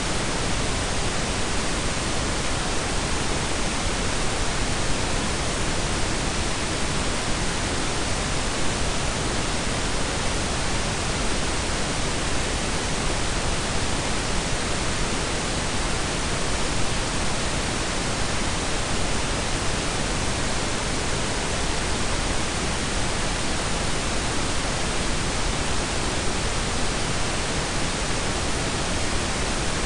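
Synthetic pink and brown noise blended: a steady, even hiss with a deep rumble beneath, unchanging throughout.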